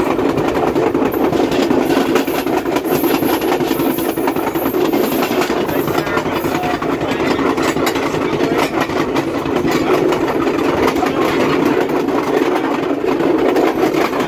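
Passenger train rolling along the track: a steady rumble of steel wheels on rail with a constant fine clatter.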